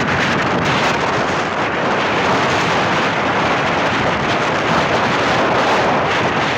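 Strong wind hitting the microphone: a loud, steady rushing noise with no clear engine note in it.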